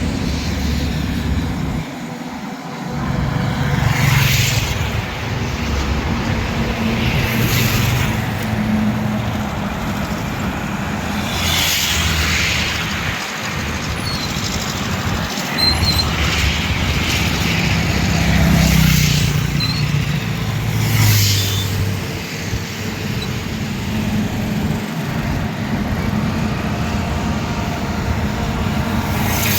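Highway traffic of heavy trucks: engines running low and steady, with passing vehicles swishing by about four times.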